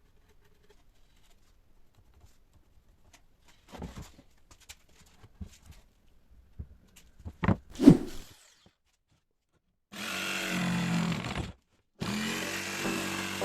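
Knocks and clunks of wood and tools being handled, with one loud thump, then a power tool running in two short bursts separated by an abrupt cut.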